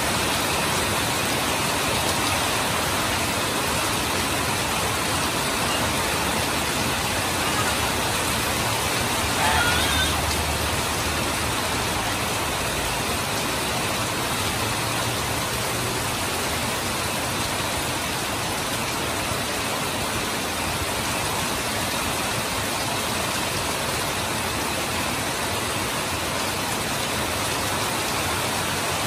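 Heavy rain pouring steadily, with water streaming off a roof edge. A brief louder sound rises out of it about ten seconds in.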